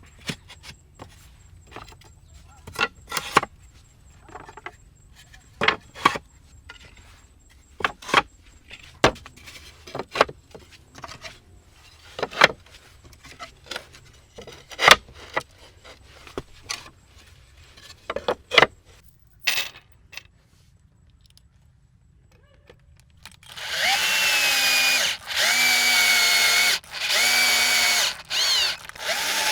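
Irregular sharp knocks and taps for most of the stretch. After a short lull, a small electric power tool runs in four bursts of about a second each, its pitch settling quickly at the start of each burst.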